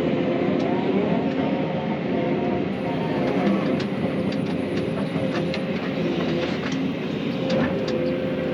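Excavator's diesel engine running steadily under load while the machine works, with irregular sharp clanks and cracks scattered through it.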